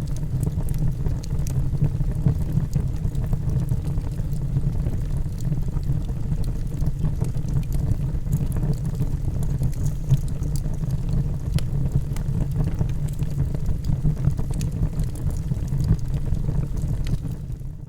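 Log fire burning in a fireplace: a steady low roar of the flames with scattered faint crackles and pops. The sound fades away near the end.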